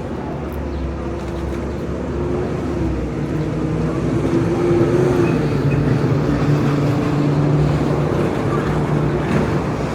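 A motor vehicle's engine running close by in street traffic, a steady hum that gets louder through the middle and eases off near the end.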